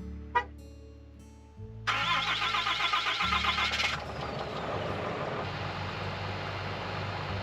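Background guitar music with two sharp clicks, then about two seconds in a truck's engine cranks and starts. At about four seconds it settles into running steadily with a low hum.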